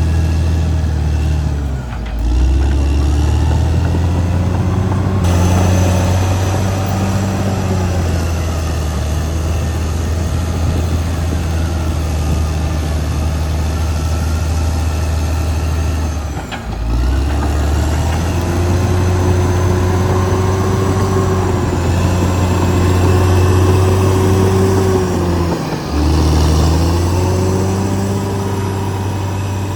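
Caterpillar D6R XL bulldozer's diesel engine working hard and steadily. Its note dips briefly three times: about two seconds in, just past the middle, and near the end. From just past the middle there is also a higher whine.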